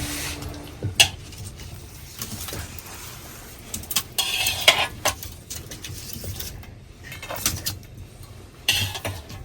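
Metal pots and utensils clinking and scraping in a few short bursts, with sharp knocks about a second in and near the end.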